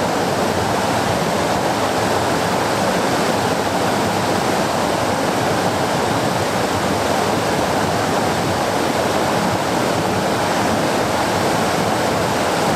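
River rapids rushing steadily: a loud, even wash of fast water with no let-up.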